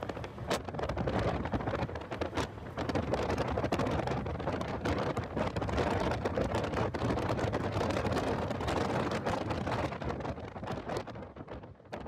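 Heavy wind buffeting and crackling on the microphone of a moving car's in-car camera, with car and road noise underneath, dying down near the end.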